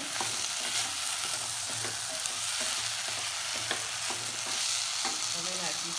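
Boiled pearl millet sizzling in hot oil and spices in a steel pot, stirred with a wooden spatula that scrapes and taps against the pot. The sizzle is a steady hiss, broken by short clicks of the spatula.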